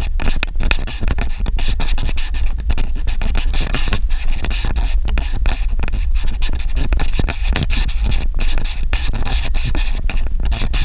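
Rough, crackling noise from a vehicle driving on a dirt road: a constant low rumble with rapid, irregular scraping knocks and buffeting on the microphone.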